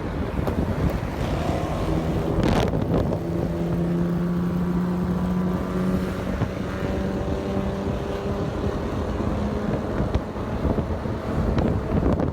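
Car engine running at a steady, slightly rising pitch while driving, with wind noise on the microphone. There is a sharp knock about two and a half seconds in.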